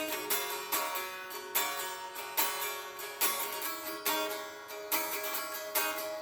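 Instrumental music: a guitar playing picked or strummed chords with a sharp attack roughly every 0.8 seconds, without singing.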